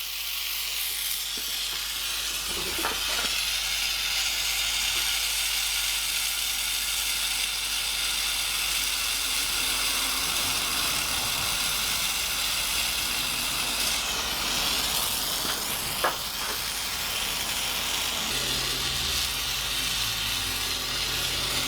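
Gas burner flame hissing steadily while a steel hardy is heated to draw its temper, with a couple of faint clicks; a low hum joins near the end.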